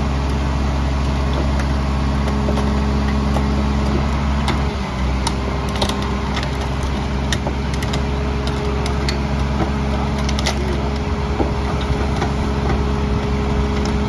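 Garbage truck's diesel engine running steadily, with scattered sharp cracks and snaps of wood, most of them in the middle stretch: bulk trash being crushed in the packer.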